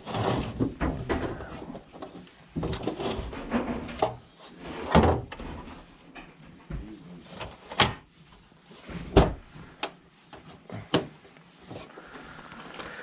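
Objects being handled and set down: a series of irregular knocks and clatters with rummaging between them, the loudest about five, eight and nine seconds in.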